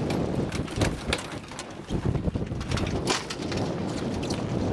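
Wind buffeting the microphone on a small sailboat, a steady low rumble, with a few sharp knocks and rattles about a second in and again about three seconds in.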